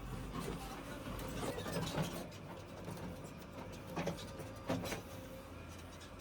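Diesel engine of a JCB 3DX backhoe loader running steadily, with a few sharp knocks about 2, 4 and 5 seconds in.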